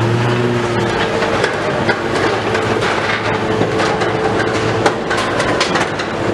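Demolition machinery running, with the clatter and knocking of breaking and falling debris; the knocks get denser in the second half.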